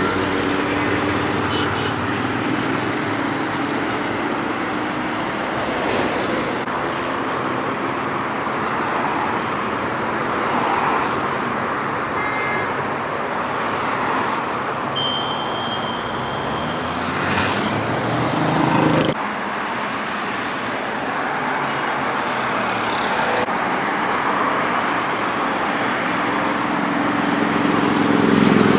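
Steady roadside traffic noise with vehicle engines passing. One engine's tone is heard just after the start, and another engine builds to the loudest point near the end.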